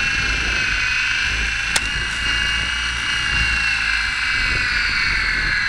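Small electric motor of a tiny toy RC helicopter whining steadily at high speed, with one sharp click about two seconds in.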